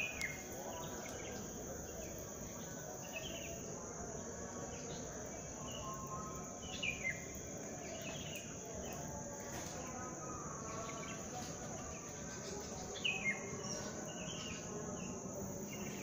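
Birds in the trees giving short, falling chirps at intervals, the loudest in close pairs midway and near the end, over a steady high-pitched insect trill like crickets.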